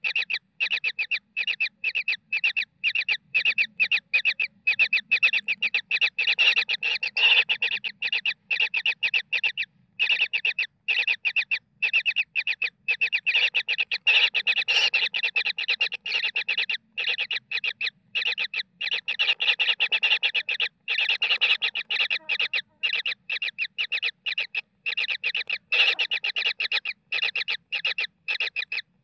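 Kingfisher chicks giving short, rapidly repeated begging calls, about three a second, with only a few brief pauses.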